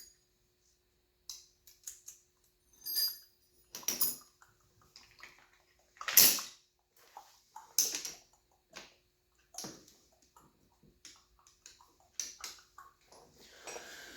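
Hand tools working a tight cylinder head bolt on a 2006 KTM 125 SX two-stroke engine: irregular metallic clicks and knocks of wrench and socket against the engine, the loudest about six seconds in, with pauses between.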